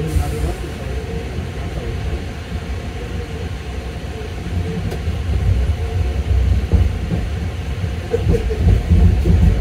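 Running rumble of an AirTrain JFK car, a Bombardier ART Mark II driven by linear induction motors, on its elevated guideway, heard from inside the car. The low rumble grows louder near the end.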